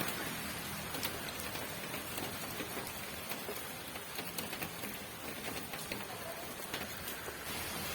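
Steady rain falling, with many separate drops ticking sharply on a hard surface through a continuous hiss.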